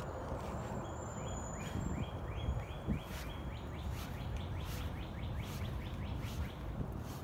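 A songbird singing a run of short, repeated down-slurred notes that speed up as the phrase goes on, over a steady low background rumble of outdoor noise.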